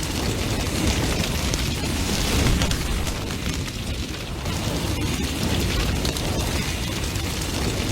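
Large bonfire burning, with a steady low rumble of flames and many sharp crackles and pops from the burning wood.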